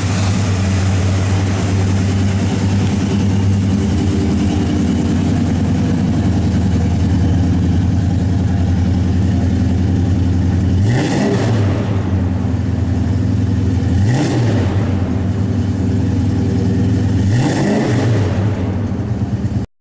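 1969 Oldsmobile 442's 400 cubic inch V8 idling steadily through its exhaust. It is revved three times in the second half, each rev rising and dropping back to idle within about a second.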